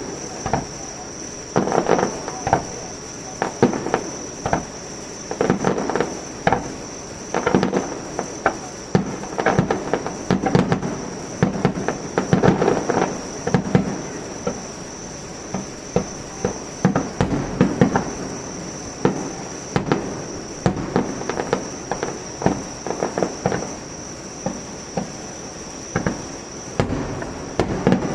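Aerial fireworks going off in rapid succession: many sharp bangs in quick clusters throughout. A steady high insect chirring sits underneath.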